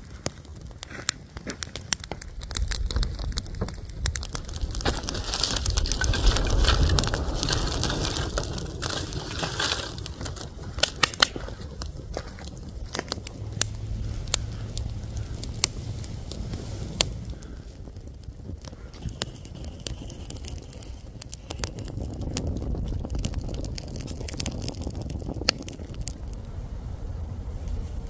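Footsteps crunching through dry leaves, twigs and forest debris, with many irregular cracks and snaps.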